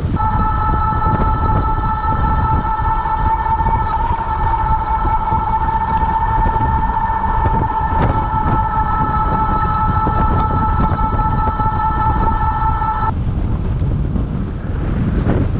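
A loud horn sounds one steady note, held for about thirteen seconds without changing pitch, and cuts off suddenly. Wind rumbles on the microphone throughout.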